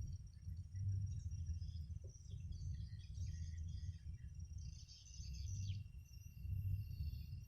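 Night insects chirping and trilling in a steady chorus, with scattered chirps, over a low, uneven rumble that is the loudest part of the sound.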